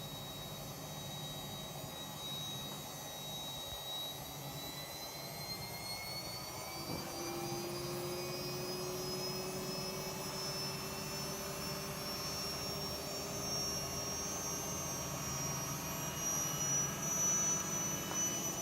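Miele Softronic W3241 washing machine spinning up toward its 1400 rpm maximum: a steady motor hum under a high whine that rises slowly in pitch, with a second, lower tone joining about seven seconds in and also climbing. The drum spins without knocking.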